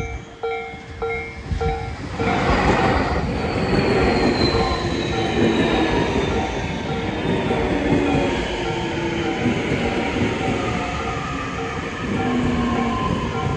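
Tobu 60000-series electric train pulling into a station and braking: loud wheel and running noise building up about two seconds in, with a high motor whine falling slowly in pitch as it slows. A repeating bell tone rings about twice a second behind it.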